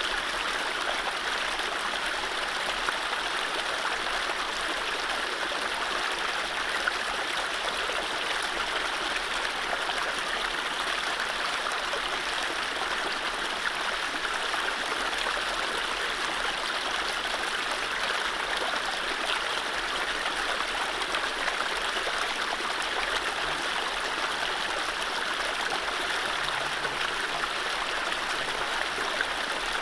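Mountain stream flowing over low rapids: a steady rushing and babbling of water, even throughout.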